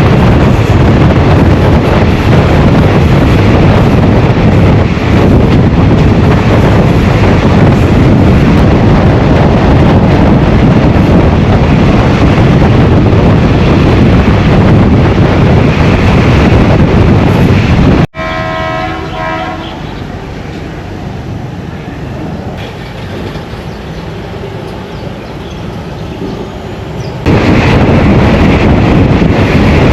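Moving train running along the line with a loud, steady rumble and rush. About eighteen seconds in, the sound drops abruptly to a much quieter rumble, with a brief pulsing pitched tone at the start of that stretch. Near the end the loud running noise returns just as suddenly.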